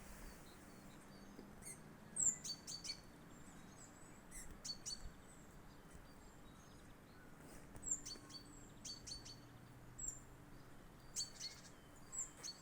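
Small songbirds chirping, with short bursts of quick high notes every second or two.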